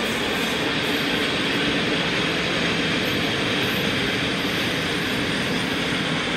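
Freight train of open-top gondola wagons rolling past close by: a steady, unbroken noise of wheels on rails.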